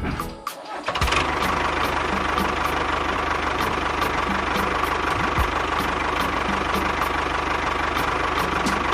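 A small engine or motor running steadily with a faint regular ticking, starting after a brief drop about a second in.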